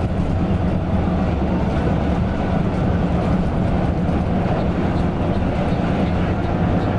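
Coach bus under way: a steady engine drone with road and tyre noise, holding an even pitch and level throughout.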